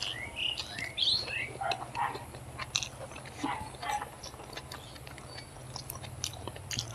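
Close-miked chewing and lip smacking of a mouthful of fried rice, with many small wet mouth clicks.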